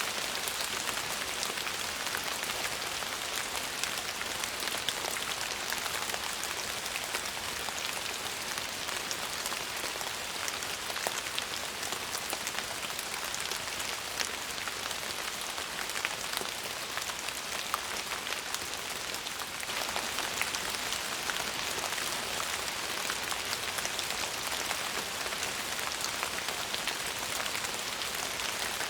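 Steady rain falling, a dense even hiss speckled with many small sharp drop impacts.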